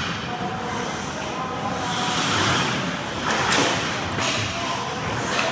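Ice hockey play at the rink: skate blades scraping and carving on the ice in several swells, one around the middle, with faint voices behind.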